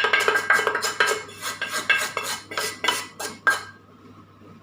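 A spoon scraping and clinking against a pan in a quick run of strokes, about four a second, as roasted spice powder is scraped out into a pressure cooker. The strokes stop about three and a half seconds in.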